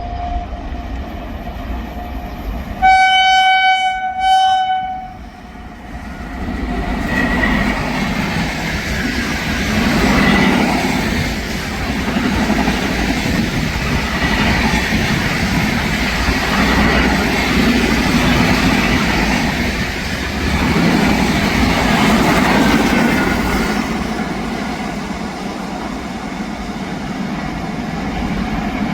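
Indian Railways electric train sounding its horn in two blasts, a longer one then a shorter one, then an express passing close at speed, its wheels clattering over the rail joints for more than twenty seconds.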